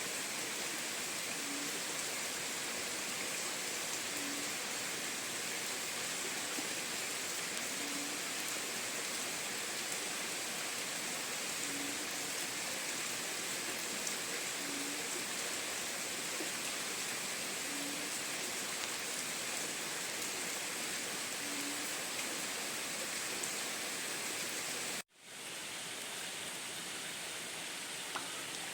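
Steady heavy rain, an even hiss. About 25 seconds in it cuts out abruptly for a split second, then resumes slightly quieter.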